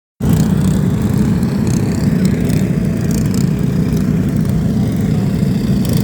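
A loud engine running steadily at an even pitch.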